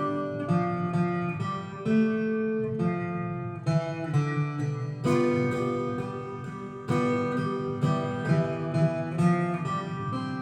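Acoustic guitar playing a slow instrumental melody over ringing chords, the notes plucked one after another with a few strummed chords.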